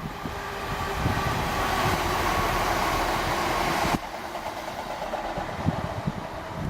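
A train passing through the station, its rushing rail and wheel noise building and then dropping away suddenly about four seconds in. Gusts of wind buffet the microphone with low thumps.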